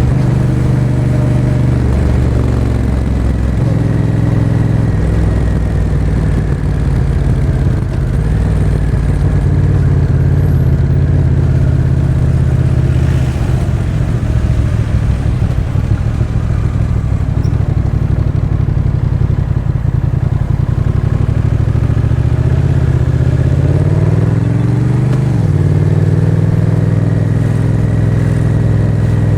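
Honda Rebel 1100's parallel-twin engine running through a Miller exhaust with the db-Absorber Racing baffle while riding at town speed. The engine note holds mostly level, then rises steadily for about two seconds near the end and drops sharply.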